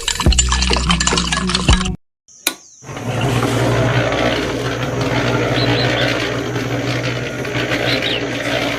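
A small motor running with a steady hum, with a noisy hiss over it. It starts after a brief cut to silence about two seconds in.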